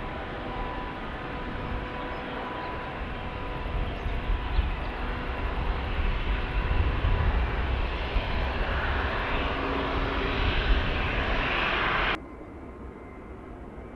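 Jet engines of an Airbus A321 airliner at close range, growing louder to a peak. About twelve seconds in the sound cuts off abruptly, leaving a fainter steady rumble.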